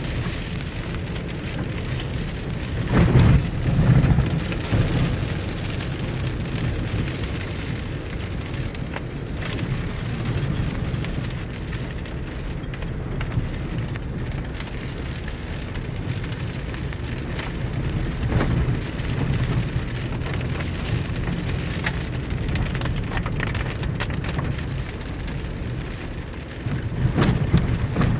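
Steady rain over a low rumble of road and engine noise from a vehicle driving along. The rumble swells louder about three to four seconds in and again near the end.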